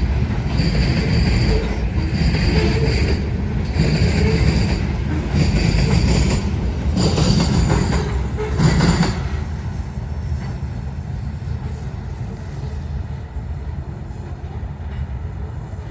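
Herzog ballast cars of a freight work train rolling past, with a steady rumble and a high wheel squeal that comes and goes with each car, about one car every second and a half. About nine seconds in the squeal stops and the sound drops to a quieter low rumble as the end of the train goes by.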